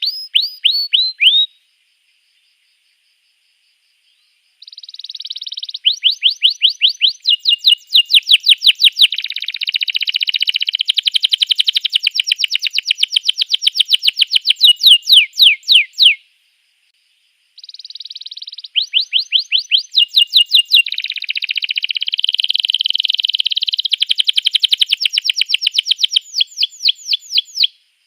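Domestic canary singing: long song phrases built of fast trills of repeated high, downward-sweeping notes, changing from one trill to the next. A brief end of a phrase opens it, then two long phrases follow, each about ten seconds long and separated by a short pause.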